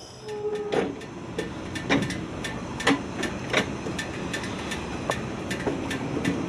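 Footsteps walking on hard ground, a steady run of sharp taps about two to three a second.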